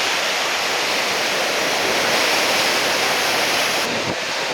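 Steady rush of heavy surf: big typhoon swell breaking along the shore, with wind noise on the microphone.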